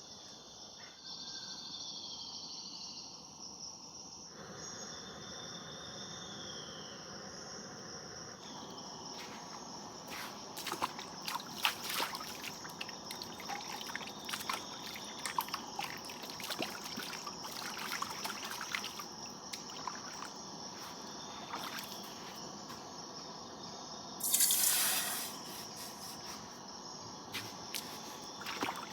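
Insects calling steadily in the Amazon forest, with irregular clicks and crackles over it from about a third of the way in and a short loud hiss near the end.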